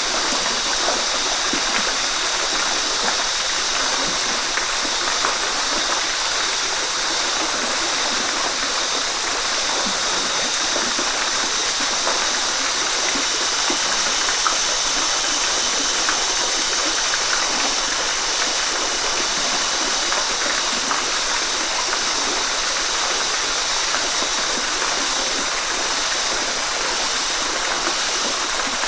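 Waterfall: steady rushing and splashing of falling water, constant throughout.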